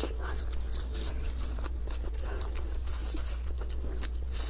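Close-up mouth sounds of biting into and chewing a grilled sausage: many small clicks and smacks, over a steady low hum.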